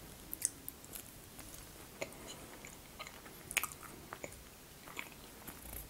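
Close-miked chewing of a mouthful of honey cake (medovik), with soft, wet mouth clicks at irregular intervals.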